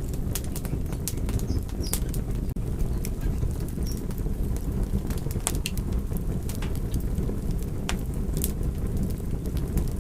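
Wood fire crackling: irregular sharp pops and snaps over a steady low rumble of burning, with a momentary dropout about two and a half seconds in.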